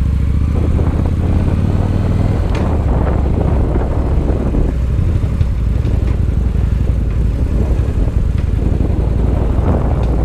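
Victory Highball's V-twin engine running steadily while the motorcycle is ridden at an even pace, a low, constant rumble.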